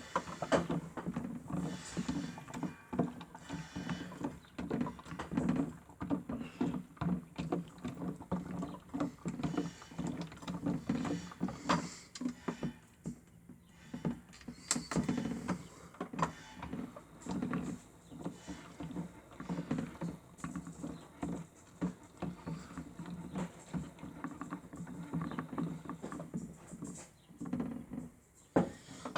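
Toy Miele W1 washing machine running its cycle: a small motor whirring in uneven pulses while water sloshes and patters in the drum, with frequent small clicks and knocks.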